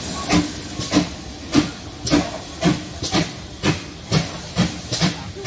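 Steam locomotive chuffing as it moves off, its exhaust beats about two a second and quickening slightly, over a steady hiss of steam.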